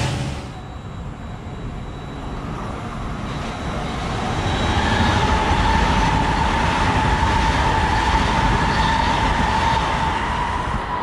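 Long Island Rail Road M7 electric multiple-unit train running through the station at speed without stopping: wheels rumbling and clattering on the rails, with a steady high whine. It grows louder over the first few seconds, then holds.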